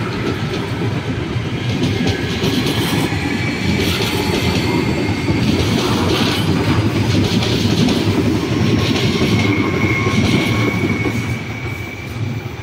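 CPTM electric commuter train running past on the adjacent track: a steady rumble of wheels on rail with a few brief high clatters. A thin high tone rises slightly over the last few seconds, and the sound fades near the end as the last car pulls away.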